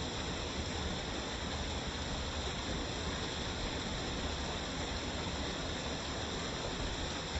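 Waterfall: water falling in a steady, unbroken rush with a low rumble underneath.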